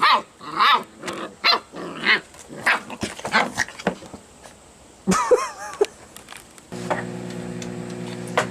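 A dog barking and yipping in a run of short calls. About two-thirds of the way through, a microwave oven starts up with a steady electrical hum.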